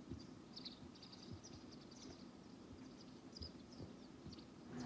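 Faint scattered short, high chirps of small birds over a low, steady background rumble.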